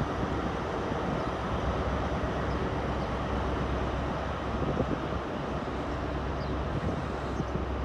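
GWR 'Castle' HST set pulling away, the diesel engines of its Class 43 power cars running as a steady low drone.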